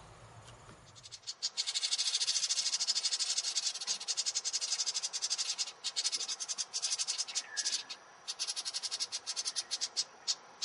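A small bird's rapid, high-pitched buzzy chatter, starting about a second in and going on in long runs with short breaks.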